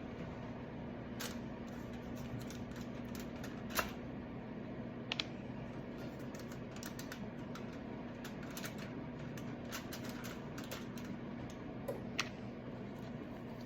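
Irregular light clicks and taps from handling plastic cookie molds and sugar cookie dough, with a few sharper knocks about four seconds in, around five seconds in and near the end, over a steady low hum.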